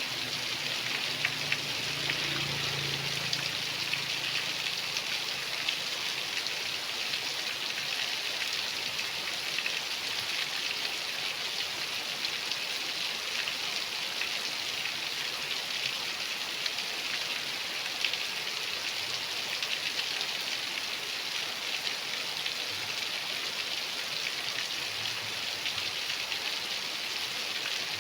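Steady rain falling and pattering on surfaces, an even hiss of many small drop impacts.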